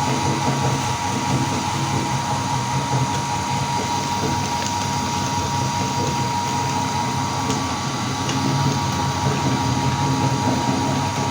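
Electric meat grinder running steadily, its motor giving an even hum with a constant high tone.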